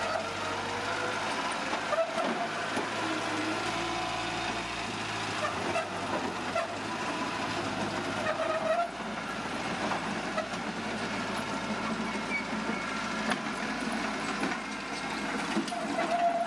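Bulldozer working: a steady diesel engine with a dense mechanical rattle, and short squeals now and then.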